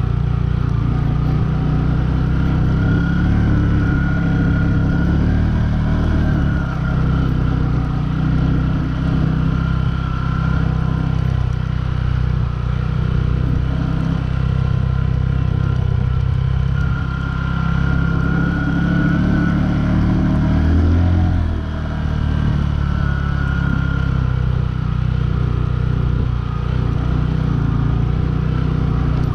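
Bajaj Boxer 150 motorcycle's single-cylinder four-stroke engine running steadily under way, its speed rising and falling a little, with a short burst of revs and a brief easing off about two-thirds of the way through.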